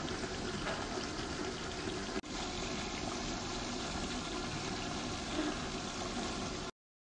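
Chicken and tomato mixture sizzling in a pan: a steady hiss, broken for an instant about two seconds in.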